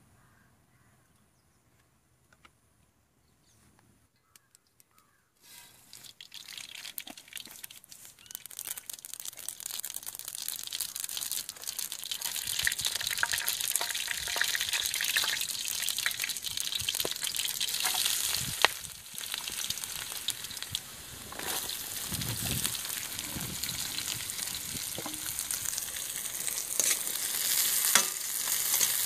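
Hot coconut oil in a metal kadai: quiet at first, then sizzling and crackling as mustard seeds and dry red chillies fry. Chopped onions are frying and being stirred with a metal ladle near the end.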